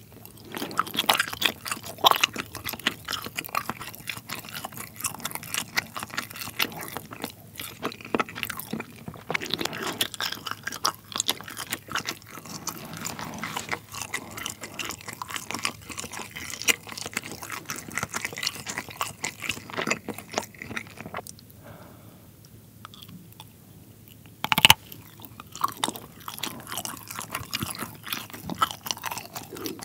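Close-miked chewing of soft, rubbery rainbow string cheese: a continuous run of wet mouth clicks and smacks. The chewing eases off for a few seconds about three quarters of the way through, then one sharp, loud click.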